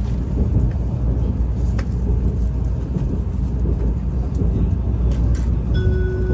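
Steady low rumble of a Shinkansen bullet train heard from inside the passenger car while under way. Near the end the onboard chime melody begins, a short run of clear stepped notes.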